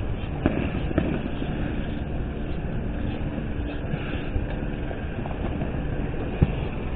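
Fireworks going off a few blocks away: several sharp bangs, the loudest about six seconds in, over a steady low rumble of wind and road noise from a moving bicycle.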